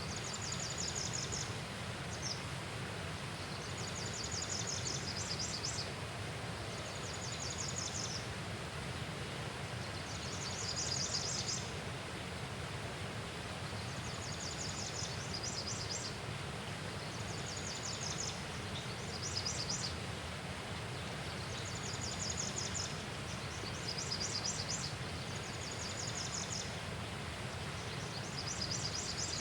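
An insect calling in short, high, rapidly pulsed trills, each about a second long and repeating every two to three seconds, over steady outdoor background noise.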